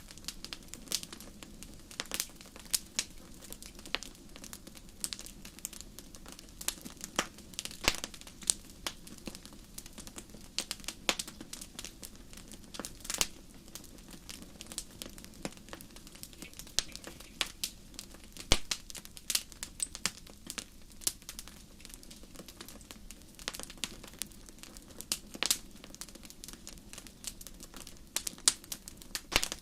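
Wood fire crackling in a fireplace: irregular sharp pops and snaps, several a second, over a steady low hiss of the burning, with a louder pop about eighteen seconds in.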